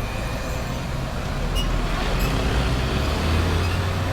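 Road traffic noise, with a heavy vehicle's engine running low and growing louder toward the end as it passes close by.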